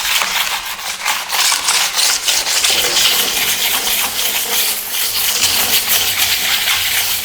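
Trowel rubbing and scraping over partly set decorative concrete-effect plaster in quick repeated strokes, smoothing it down.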